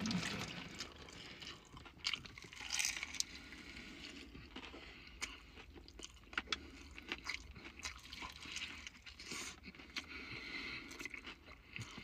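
Close-miked eating: crunching and chewing KFC fried chicken, with many short sharp crunches.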